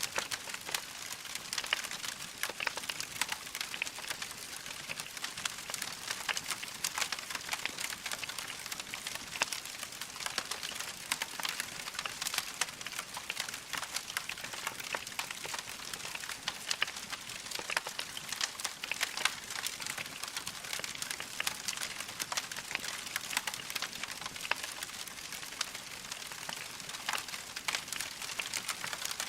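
Burning logs crackling: a constant scatter of small, sharp pops and snaps over a soft hiss.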